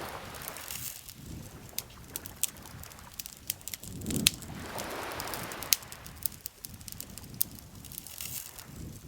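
Campfire crackling with scattered sharp pops, the loudest about four seconds in, over gentle lake water lapping in soft swells that rise and fade every few seconds.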